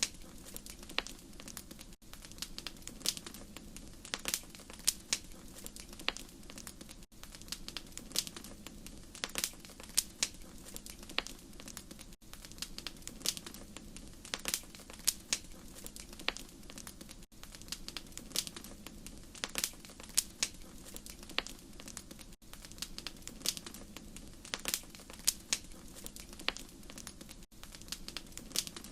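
Wood fire crackling steadily, with many irregular sharp pops over a low, even rumble of the flames. The level dips briefly about every five seconds.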